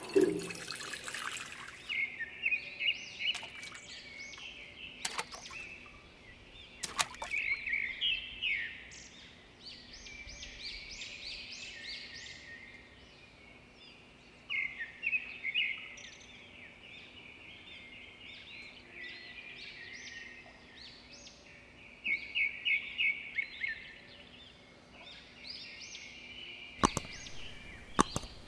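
Birds chirping and singing, with short calls repeating on and off throughout. Water pours at the start, and there are a few sharp clicks, two of them close together near the end.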